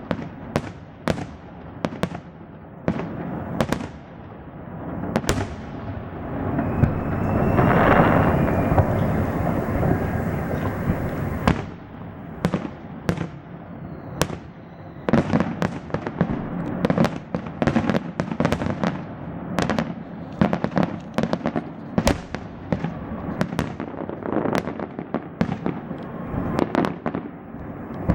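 Fireworks display: a string of sharp bangs from bursting shells, swelling into a dense crackling rush about six to eleven seconds in, then quicker bangs, several a second, toward the end.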